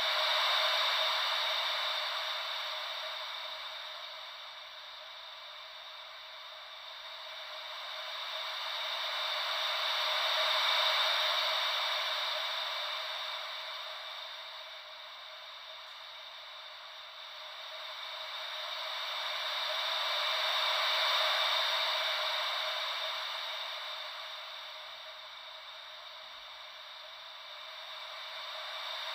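Gentle ocean-wave white noise: an even hiss, with no low rumble, that swells and fades slowly about every ten seconds.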